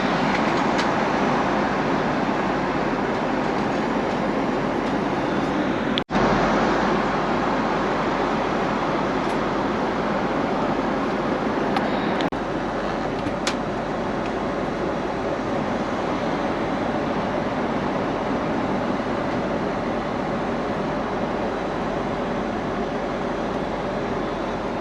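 Steady in-flight cabin noise of a Boeing 777 at cruise: an even rush of airflow and engine noise, broken by a momentary gap about six seconds in.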